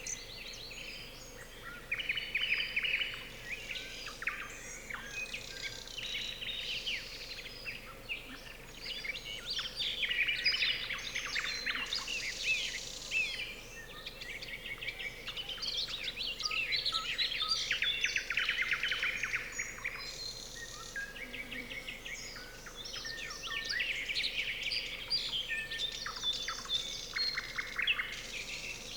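Nightingales singing in overlapping phrases of rapid repeated notes and trills, with other songbirds mixed in.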